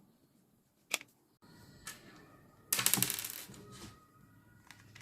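Small hard plastic or metal parts clicking and rattling as they are handled during a teardown: single clicks about one and two seconds in, then a denser rattle around the middle.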